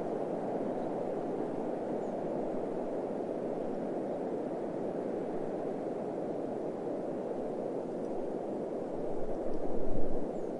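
Steady desert wind noise with a gust buffeting the microphone near the end, adding a brief low rumble.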